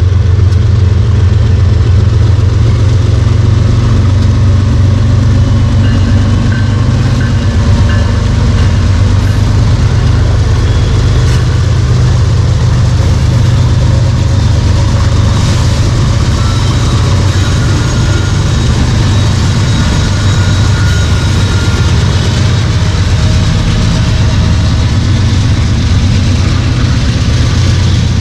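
Freight train passing with a steady, loud, low diesel rumble, with faint thin high whines now and then.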